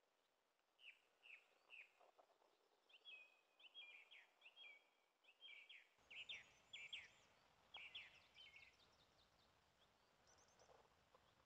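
Songbirds singing and chirping faintly: quick series of short high chirps and trills, several calls overlapping.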